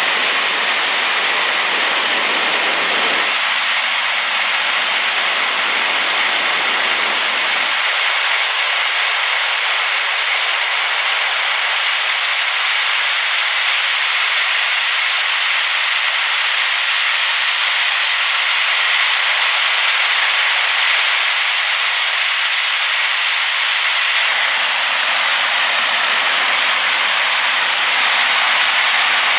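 Waterfall in spate, swollen by rain: a steady, loud rush of falling water.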